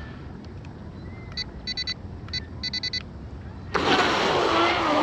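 A few clusters of short, high electronic beeps over quiet background. Then, about three and a half seconds in, an RC hydroplane's water-cooled brushless motor and propeller suddenly start loud, with a whine that wavers and falls over the rush of spray as the boat runs.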